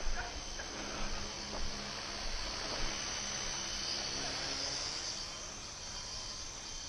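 Small electric motors and rotor blades of WL Toys V912 RC helicopters in flight: a steady high-pitched whine with a hiss.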